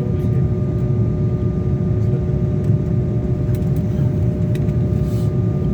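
Airliner cabin noise in flight: a steady low rumble of jet engines and rushing air, with a constant hum beneath it.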